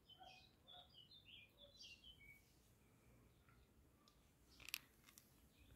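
Faint songbird chirping: a quick run of short high chirps over the first two seconds, then a single soft click near the end, with otherwise near silence.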